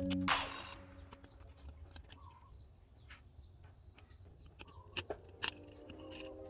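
Faint bird chirping with a few sharp clicks, the loudest pair about five seconds in; background music cuts out at the start and comes back softly near the end.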